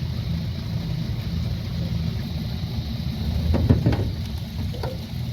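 Small boat's outboard motor idling steadily, with a few knocks about three and a half seconds in.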